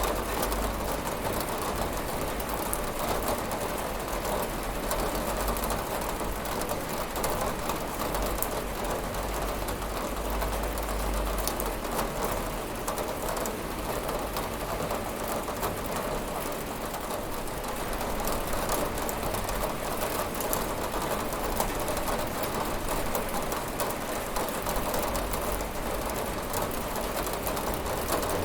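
Steady rain falling on a window, a dense, even hiss of many drops with no thunder.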